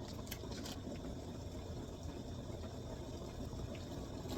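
Pasta in a cheesy sauce simmering in a pan on the stove, a steady low bubbling hiss, with a couple of faint clicks in the first second.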